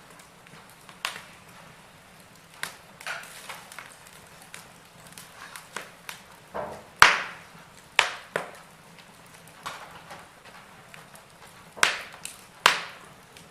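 Wood fire crackling in a fireplace: irregular sharp pops and snaps over a faint steady background, the loudest pop about seven seconds in and two more near the end.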